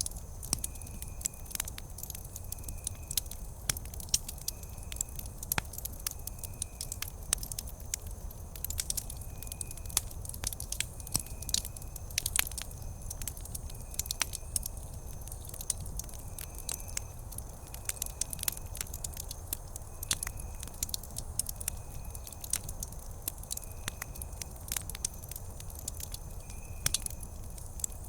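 Wood campfire crackling, with sharp pops at irregular intervals over a low steady rumble. A faint short high chirp repeats about once a second in the background.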